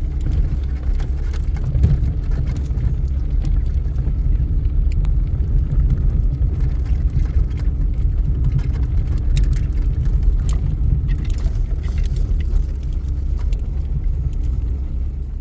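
A loud, steady low rumble that stops abruptly at the end.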